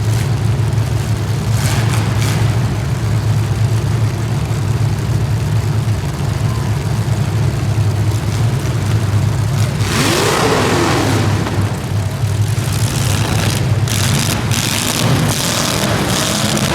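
Racing engines running steadily, with one vehicle passing close about ten seconds in, its pitch sweeping as it goes by.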